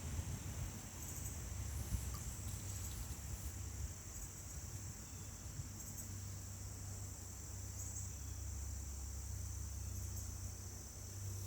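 A steady, high insect chorus of crickets or similar insects, with a low rumble underneath.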